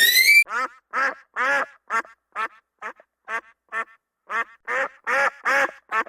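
A whistle glides upward in pitch and stops about half a second in. It is followed by a rapid series of short, nasal, quack-like animal calls, about two to three a second, louder toward the end.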